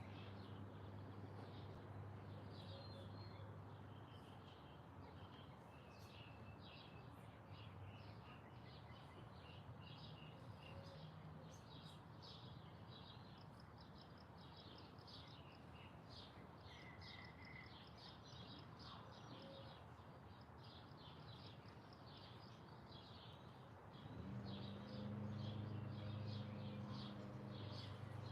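Small birds chirping faintly, a dense run of short, quick high chirps. Underneath is a low steady hum that grows louder near the end.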